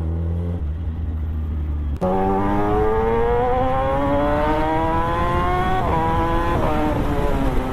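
Kawasaki ZX-10R's inline-four engine under hard acceleration. A low steady drone gives way about two seconds in to an engine note rising steadily in pitch, which drops sharply twice near the end as it shifts up, then climbs again.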